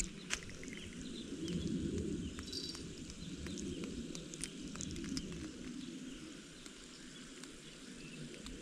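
Outdoor ambience: a low, uneven background rumble with faint bird chirps and scattered small clicks, two sharp ones right at the start.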